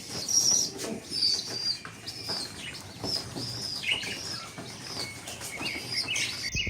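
Small birds chirping: a steady run of short, high chirps, with a few faint clicks underneath.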